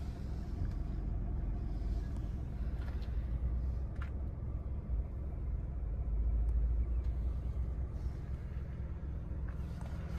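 Ford Focus engine idling, a steady low rumble heard from inside the cabin.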